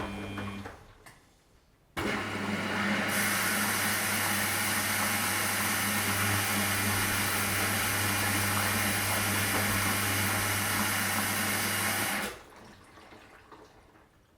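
Washing machine: a steady motor hum stops under a second in. After a short quiet, water rushes through the machine with a steady electric hum for about ten seconds, starting and cutting off abruptly.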